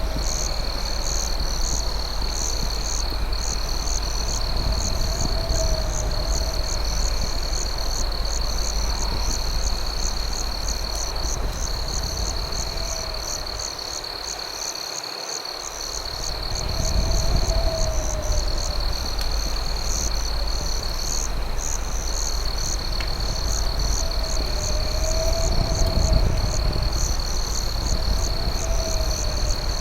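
Night insect chorus of crickets: a steady high trill with rapid pulsing chirps above it, and a lower warbling call that rises and falls every few seconds, over a low rumble that fades briefly about halfway through.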